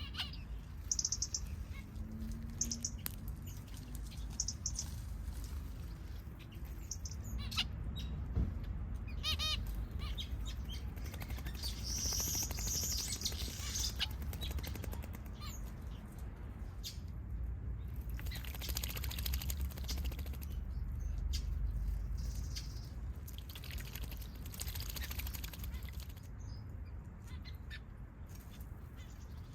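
Small aviary birds, finches and softbills, chirping and twittering, with several bursts of wing-fluttering splashes as they bathe in a bird bath.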